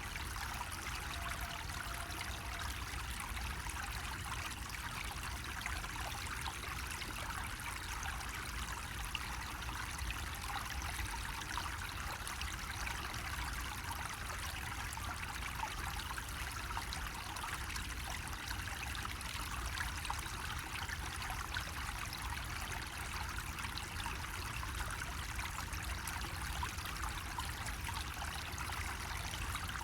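Water running steadily from a bamboo spout, an even trickling pour with no breaks.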